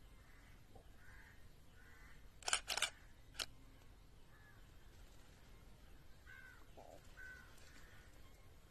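Faint outdoor bird calls repeating every second or so, with three sharp clicks about two and a half to three and a half seconds in.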